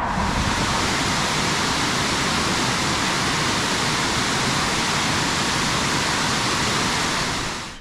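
Waterfall: a steady, loud rush of falling water, fading out just before the end.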